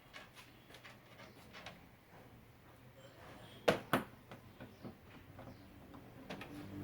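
Light clicks and handling noises of LED TV parts being fitted back together, with two sharp knocks a third of a second apart just past the middle.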